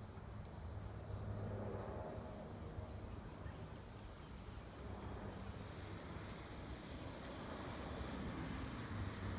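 A bird giving a sharp, high chip call over and over, seven short notes each dropping quickly in pitch, about one every second and a quarter.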